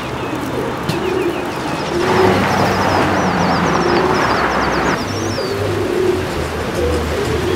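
Birds cooing over and over, with quick high chirps above them. A rushing noise swells about two seconds in and stops about five seconds in.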